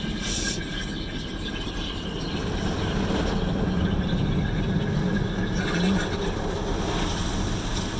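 Automatic car wash equipment running, heard from inside the car's cabin: a steady mechanical rumble with a hiss that grows louder over the first few seconds.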